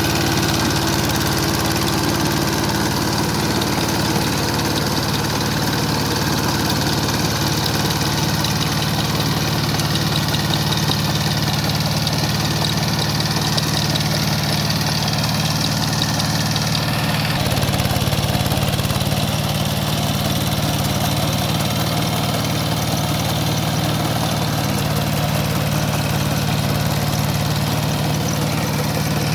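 Kubota K700 power tiller's engine running steadily; its sound changes a little past halfway, the hiss above it dropping away.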